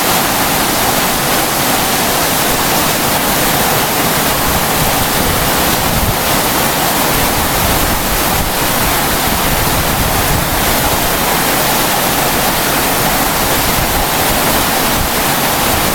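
Heavy rain mixed with hailstones pouring down in a summer storm, a steady, dense hiss that does not let up.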